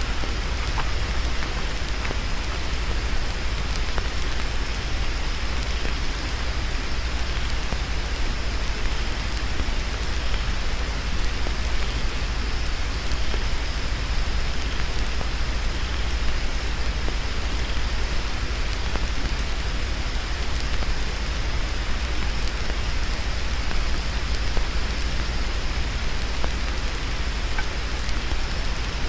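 Heavy rain falling steadily, a dense hiss with countless small drop strikes and a low rumble, with a thin steady high tone underneath.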